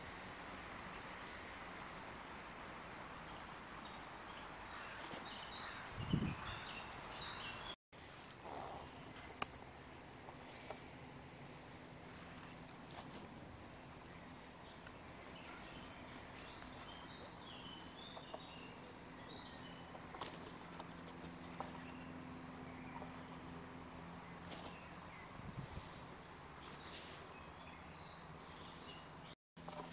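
Open-air background noise with a small bird repeating a short, high call about once every 0.7 seconds, among other thin chirps and a low steady hum. A dull thump comes about six seconds in.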